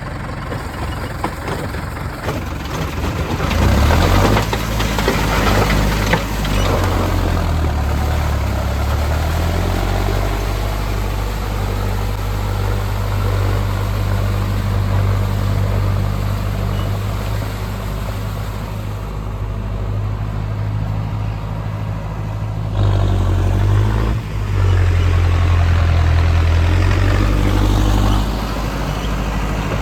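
Mahindra Arjun Novo tractor's diesel engine running steadily, picking up and getting louder a few seconds in and again near the end.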